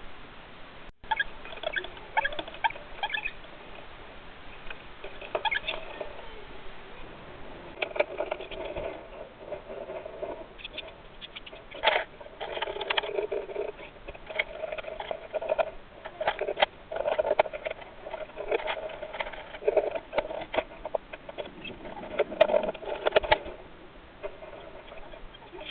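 Budgerigar pecking and scratching about its cage: rapid, irregular small taps and clicks of beak and feet, busier from about eight seconds in.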